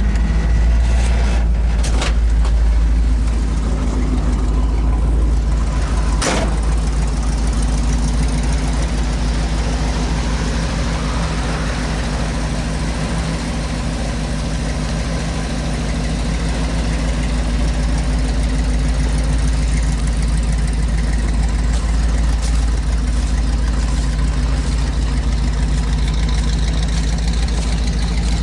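1972 Chevy truck engine idling steadily after a cold start. A sharp click sounds about six seconds in.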